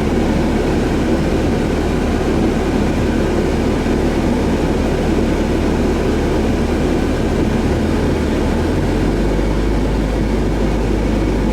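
Steady engine and road noise heard from inside a moving car, with a low hum that drops in pitch about eight or nine seconds in.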